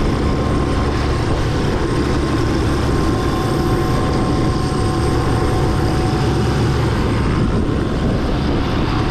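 MD500C helicopter running at ground idle: a steady turbine whine over the dense low throb of the turning rotor.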